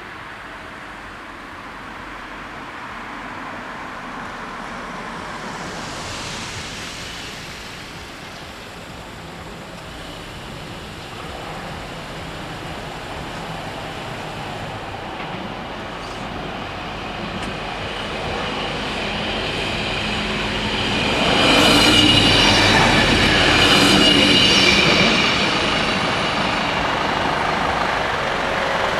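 DB class 646 (Stadler GTW) diesel railcar approaching and passing over the level crossing. It grows steadily louder and is loudest about 21 to 25 seconds in, with high squealing tones from the wheels, then fades slightly.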